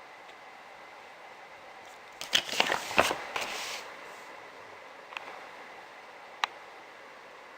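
Handling noise: a quick flurry of clicks and rustles about two seconds in, then two single sharp clicks, over a steady faint hiss.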